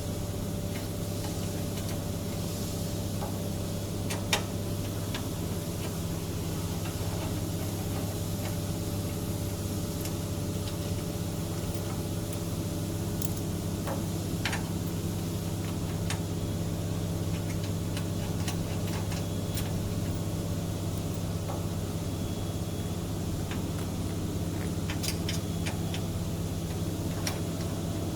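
Steady low mechanical hum of running factory machinery, with scattered sharp clicks and light metal taps from hand assembly work, the loudest knock about four seconds in.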